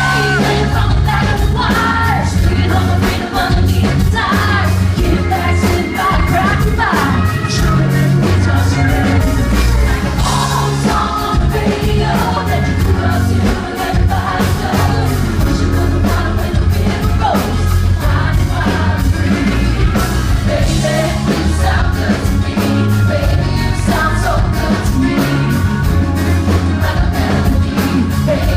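Live band performing a pop-country song with a woman singing lead over a steady drum beat.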